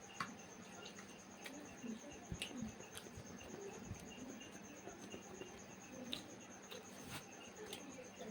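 Quiet eating sounds, scattered soft clicks and smacks at irregular intervals, over a steady high-pitched insect trill.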